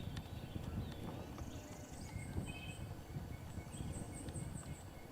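Small birds chirping and trilling over a low rumble of wind and handling noise.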